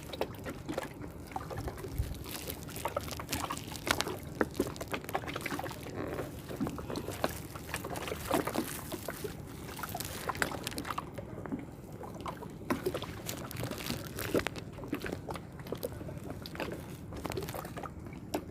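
Water sloshing and trickling, with many small irregular splashes and clicks.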